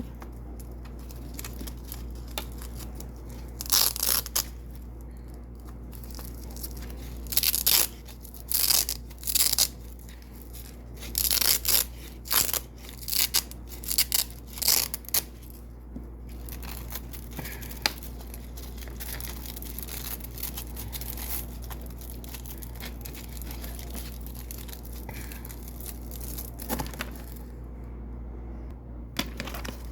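Double-sided Velcro being ripped off white hook-side Velcro in many short, crisp tearing bursts, some in quick runs. The bursts stop about halfway through, after which only a low steady background and an odd faint rip remain.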